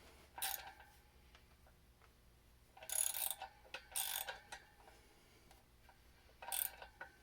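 Short bursts of metal clicking and rattling, four times, from tools and 6 mm brake rotor bolts being fitted to a motorcycle's front wheel hub.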